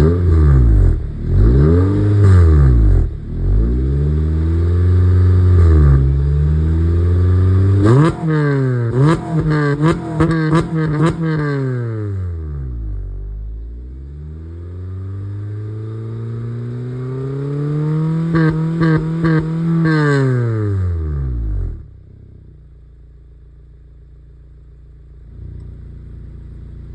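Honda Civic Type R (FD2) 2.0-litre four-cylinder VTEC engine revved repeatedly through an aftermarket Zero Fighter mid-pipe and the stock rear muffler: a run of quick throttle blips, then a slower climb and fall in revs. About 22 seconds in, the engine sound drops suddenly to a low, steady level.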